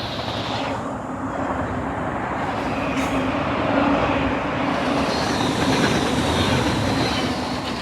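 A train passing, with the steady noise of wheels on the rails and a low engine hum throughout.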